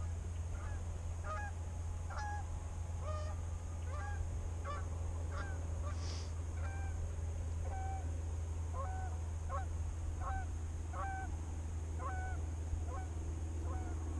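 Geese honking repeatedly, short calls one or two a second, over a steady low rumble.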